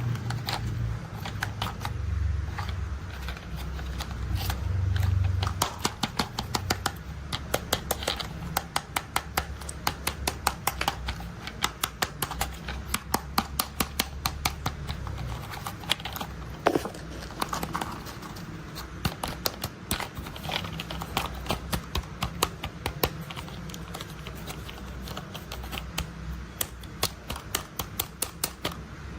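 Plastic toy construction vehicles being tapped and handled: a run of sharp clicks and taps, about two a second. A low rolling rumble of toy wheels runs under them for the first five seconds or so.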